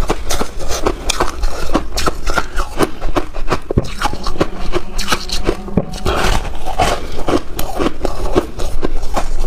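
Crisp, rapid crunching and crackling of freezer frost, close to the microphone.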